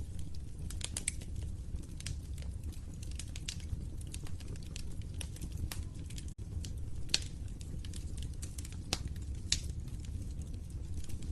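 Wood fire burning in a fireplace: a steady low rumble of flames with irregular crackles and pops, two of them louder. The sound cuts out for an instant a little past halfway.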